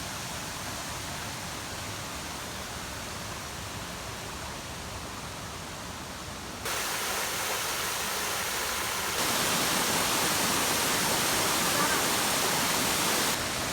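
Steady rush of running water, like a stream or small waterfall. It gets louder in two sudden steps partway through and drops slightly near the end.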